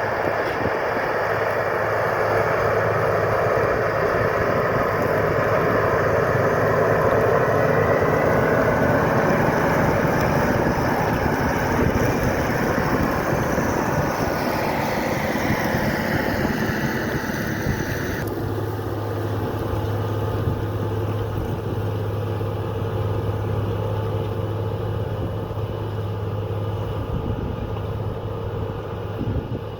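Large AGCO diesel farm tractor running under load while pulling a plow, a steady engine sound that swells in the middle. About eighteen seconds in, it changes abruptly to a duller, steadier low engine hum.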